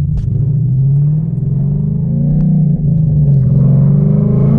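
Mustang GT's 5.0 V8 running through Flowmaster mufflers and a catless X-pipe: a deep, steady exhaust note. The revs build gently, ease off briefly partway through, then rise again near the end.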